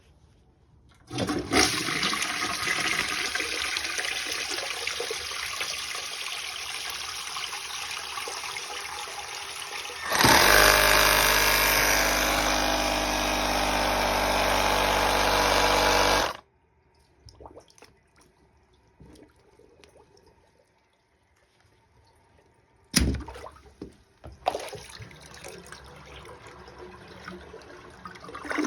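Toilet water flushing and running, then a louder steady rush with a low hum that cuts off suddenly about halfway through. After a quiet spell, a single sharp bang from a Milwaukee AirSnake air-burst drain cleaner firing into the toilet to blast the clog is followed by water rushing through the bowl.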